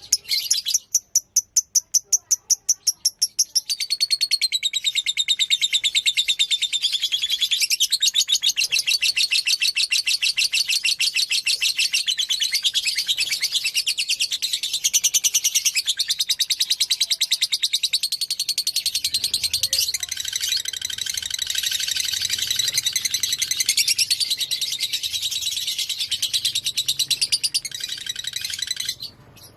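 A fighter lovebird sings a long, fast chattering trill, the continuous 'ngekek' song. It opens with about three seconds of rapid, separate high chirps, then runs on unbroken and cuts off abruptly just before the end.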